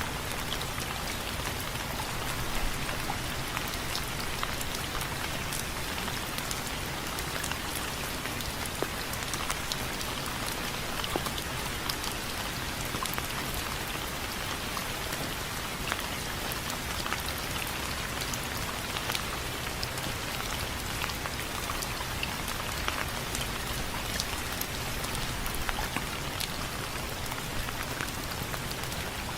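Steady rain falling on window frames, an even hiss dotted with many sharp drop ticks.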